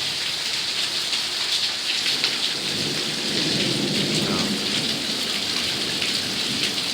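Heavy monsoon rain falling steadily, with a low rumble of thunder swelling about three seconds in and fading a couple of seconds later.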